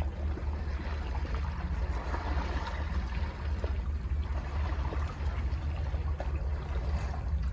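Sea waves washing against rocks at the foot of a cliff, a surge of surf swelling and easing off through the middle, over a steady deep rumble.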